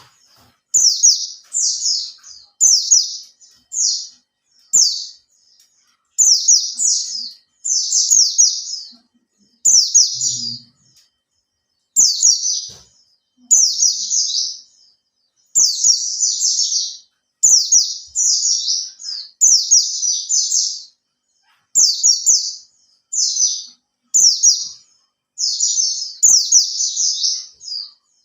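Oriental white-eye (pleci) singing: a long run of short, rapid, high twittering phrases, each lasting about half a second to a second, with brief pauses between them.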